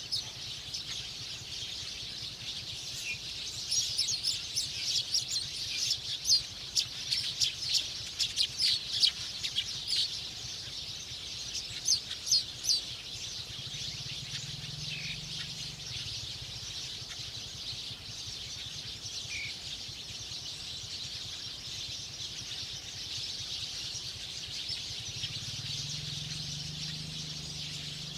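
Small birds chirping in quick, sharp clusters, busiest between about four and ten seconds in and again around twelve seconds, over a steady high-pitched hiss.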